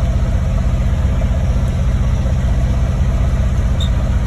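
Chevrolet 283 V8 engine of a 1965 C-60 dump truck idling steadily.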